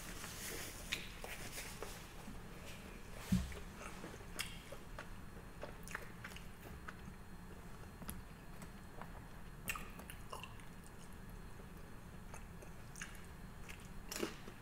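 A person chewing and biting sushi, with scattered small mouth clicks and a dull thump about three seconds in.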